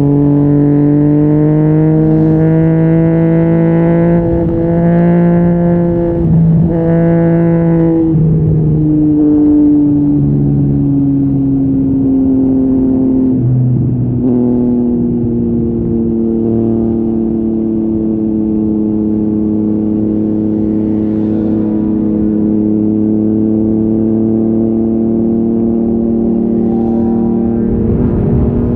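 Yamaha MT-09's 847 cc crossplane three-cylinder engine through an Akrapovic exhaust, riding at high revs with two brief breaks for gear changes early on. Its pitch then falls as the bike eases off and settles into a steady lower-rev cruise.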